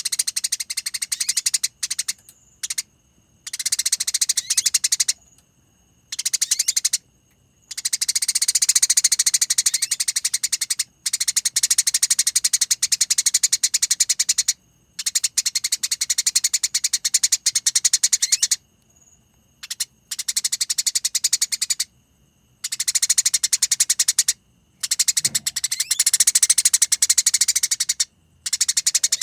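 Songbird known in Indonesia as 'gereja tarung' singing long, rolling trills of rapid, high chattering notes, in bursts of one to four seconds with short pauses between them.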